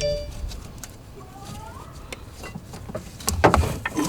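Scattered clicks and knocks of metal parts and tools being handled while a serpentine belt is worked over its pulleys, with a few louder knocks near the end.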